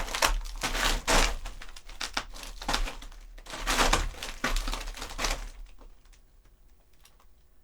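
Foley footsteps: leather shoes crunching on coarse gravel in a box, a run of uneven steps that stops about five and a half seconds in.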